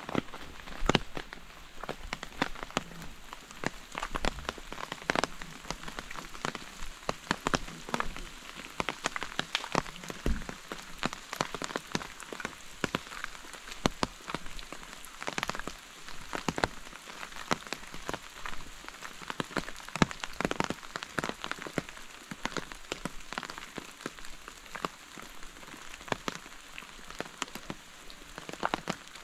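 Rain falling steadily, an even hiss with many separate drops ticking sharply and irregularly close by.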